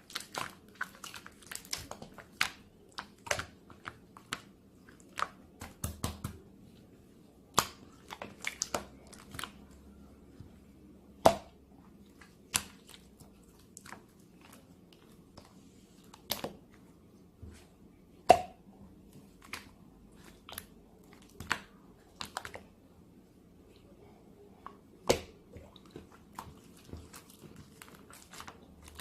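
Slime being squeezed, stretched and pressed by hand, giving off irregular sharp clicks and crackling air-bubble pops, a few of them much louder than the rest.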